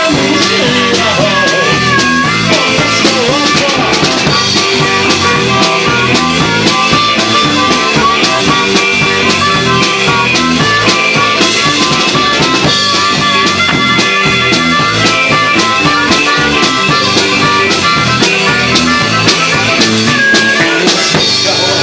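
Live rock-and-roll band playing an instrumental break: a steady drum beat with guitar, and a lead line that bends its notes.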